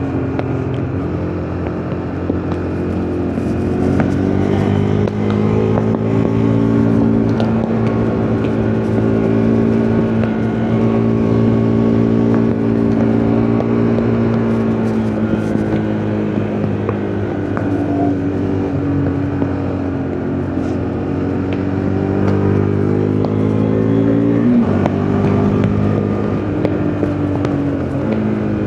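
KTM RC 390's single-cylinder four-stroke engine running under way, its pitch rising and falling gently with the throttle, with one sudden drop in pitch near the end before it climbs again.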